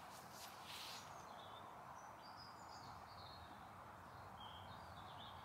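Faint outdoor ambience with small birds chirping now and then, in short high calls.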